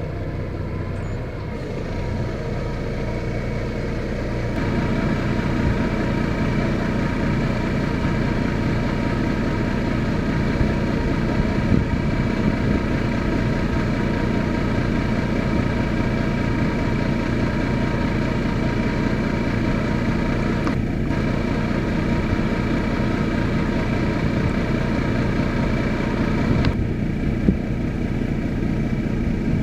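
Ford boom truck's engine running steadily with a thin, high whine over it, picking up and getting louder about four and a half seconds in.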